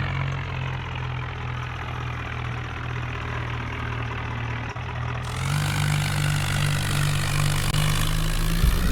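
Tractor diesel engine running steadily at idle, growing louder and fuller about five seconds in.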